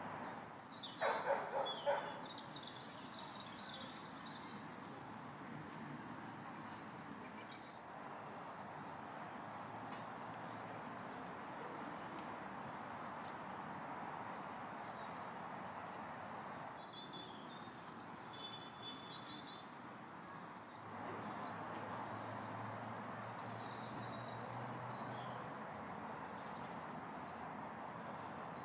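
Wild birds calling: a brief harsh call about a second in, then in the second half a string of short, high, rising chirps repeated every second or so, over a steady low background hum.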